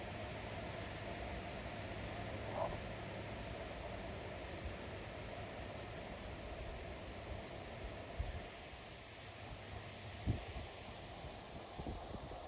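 Crickets chirring in a steady high trill over a soft, even rush of wind through trees. A few faint low thumps come in the second half.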